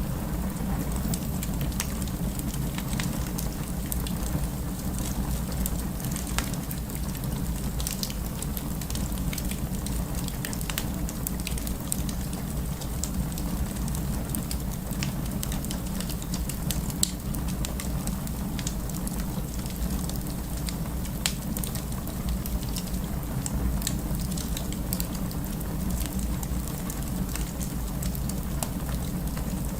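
Fire crackling: frequent irregular pops and snaps over a steady low rumble, with a couple of louder pops.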